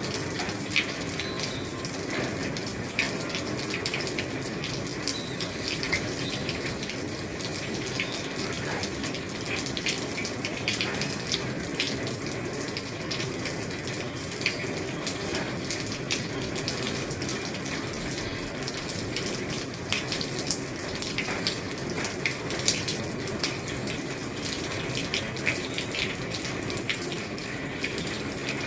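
Rain falling on an old roof: a steady rush of rain with many sharp individual drop ticks scattered through it.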